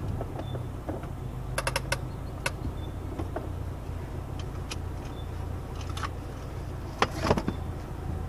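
Saab 900 convertible's engine idling steadily, heard from inside the open car, with several sharp clicks and knocks from the cabin: three quick clicks about one and a half seconds in and the loudest cluster about seven seconds in.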